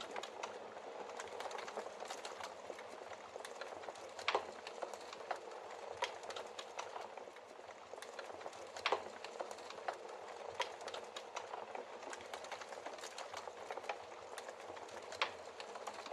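Wood logs burning in a fireplace: a steady fine crackle with frequent sharp snaps and a few louder pops scattered through.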